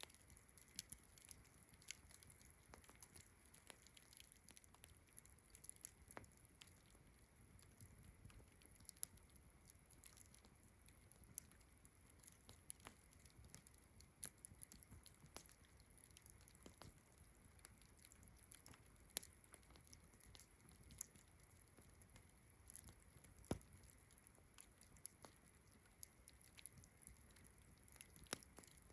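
Campfire crackling softly, with irregular sharp pops and snaps, over a steady faint high chirring of distant crickets.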